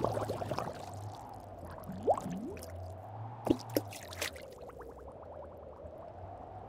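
Cartoon water-droplet sound effects: two rising drip sounds about two seconds in, then sharp drip clicks around three and a half and four seconds, over a steady low hum.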